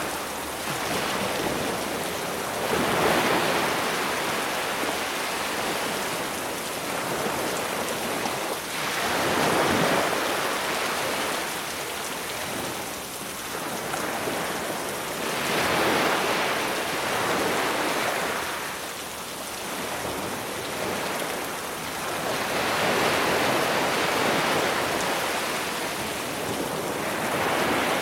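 Sea waves washing onto the shore, swelling and falling back about every six to seven seconds, over a steady hiss of rain that is mixed in from a library recording.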